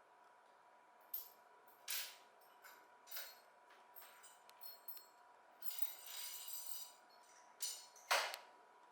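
Small metal parts and tools being handled: a series of separate clinks and knocks, some ringing briefly. A scraping, rustling stretch comes around the middle, and the loudest knock falls near the end. A faint steady high hum runs throughout.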